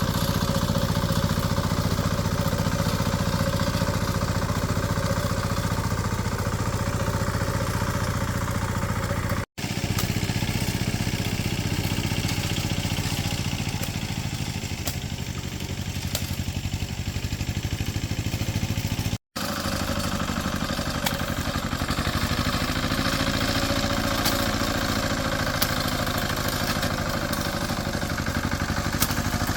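Engine of a small farm machine running steadily with some clatter. The sound cuts out for an instant twice, about a third and about two-thirds of the way through.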